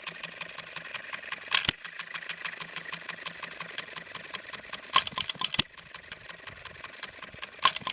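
Scale New Holland hit-and-miss engine with make-break ignition running: a fast, even clicking of its moving parts, with a louder burst three times, every few seconds.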